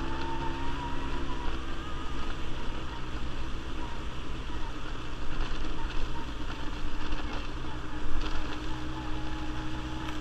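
Quad bike (ATV) engine running at a steady pace while riding, with a faint whine that drifts slightly in pitch above the engine hum.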